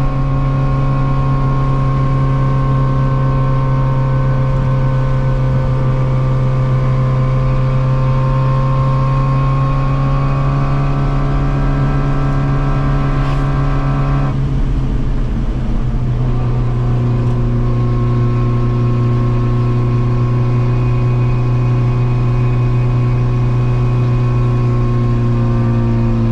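Yugo's small four-cylinder engine droning under way, its pitch slowly climbing, then dropping suddenly about halfway through as the driver shifts or lifts off, and running steadily again.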